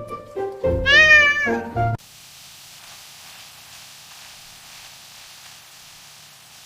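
Light background music with a single long, wavering cat meow about a second in. The music cuts off at about two seconds and a steady soft hiss follows.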